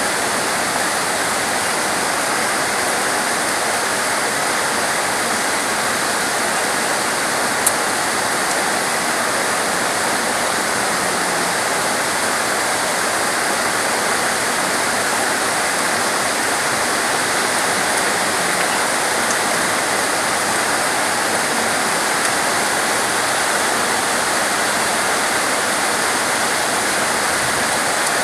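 Steady heavy rain, an even unbroken hiss, with one sharp tick about eight seconds in.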